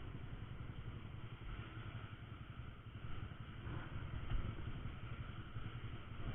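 Honda Verza 150 single-cylinder motorcycle engine running steadily, a low rumble under road and wind noise.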